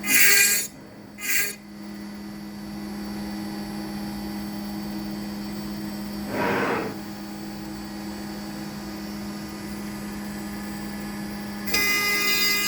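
Home-built CNC router's spindle running with a steady hum. Two short harsh bursts sound in the first second and a half, another about six seconds in, and a louder, rougher cutting noise starts near the end as the bit works the pine.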